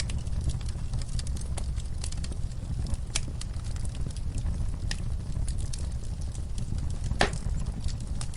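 Wood fire burning in a fireplace: a steady low rumble of flames with scattered small crackles, and sharper pops about three seconds in and again near the end.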